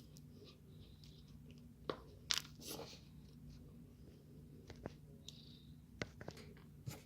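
Packed tapioca starch chunks being bitten and chewed: a few sharp, scattered crunches, the loudest about two to three seconds in.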